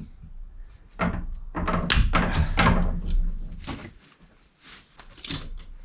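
A run of thuds and knocks from hands-on building work, busiest in the middle, then a few lighter knocks.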